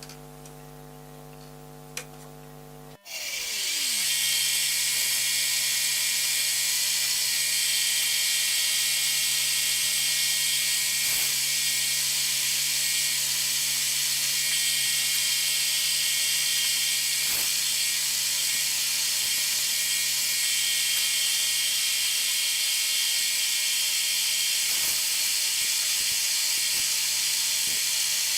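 Bridgeport milling machine's motor and spindle running steadily while drilling through holes with a 4.6 mm twist drill, with a hiss in the upper range and a few faint clicks. For the first few seconds a quieter hum is heard; it is broken off suddenly about three seconds in by a short falling sound, and the louder steady running follows.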